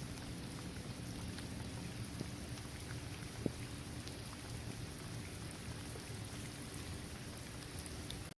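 Steady rain falling on a basketball court, trees and grass: a continuous even hiss with scattered individual drop ticks, one sharper drip about three and a half seconds in. The sound cuts off abruptly at the very end.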